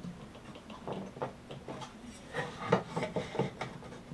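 A few light taps and rubs of a square being handled against a small wooden picket box, grouped in the second half, over a faint steady hum.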